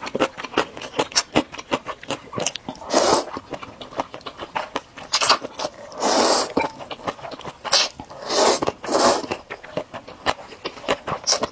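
Close-miked eating of spicy instant noodles: several noisy slurps, each about half a second long, among a constant run of small wet chewing clicks.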